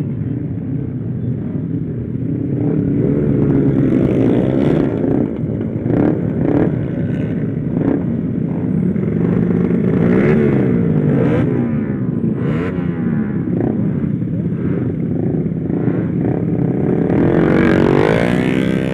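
Motorcycle engine under hard acceleration, its revs climbing and then dropping back several times as it shifts up through the gears, with wind noise over the ride.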